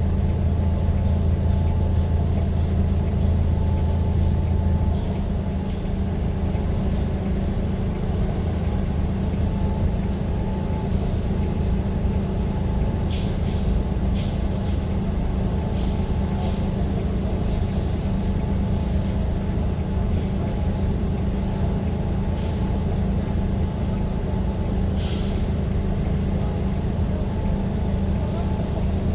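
A vehicle engine running with a steady low hum that eases slightly about five seconds in, with a few short hisses scattered through.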